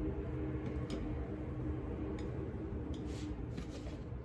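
A few light, scattered clicks and knocks from a knife against a cutting board as cooked brisket is sliced, over a steady low hum.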